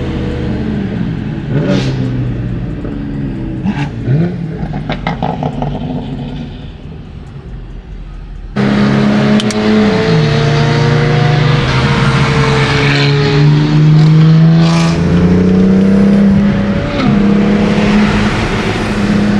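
A car engine revving through gear changes, with short throttle blips in the first few seconds as the sound fades. About eight and a half seconds in it cuts suddenly to a much louder engine, holding steady revs with its pitch dropping and rising as gears change.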